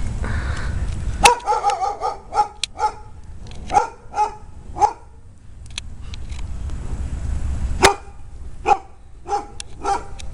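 Dog barking in quick runs of short, sharp barks, with a pause of a few seconds in the middle.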